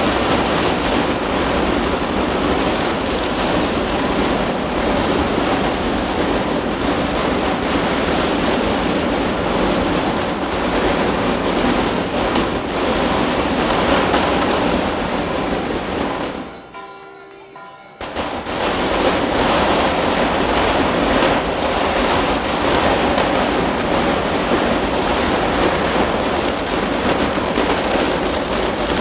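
Daylight fireworks barrage: a dense, continuous rattle of firecracker and shell bangs. It drops away briefly about two-thirds of the way through, then comes back suddenly.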